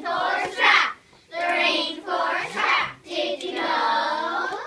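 Children's voices singing a song in held phrases, with short breaks about a second in and again near three seconds in.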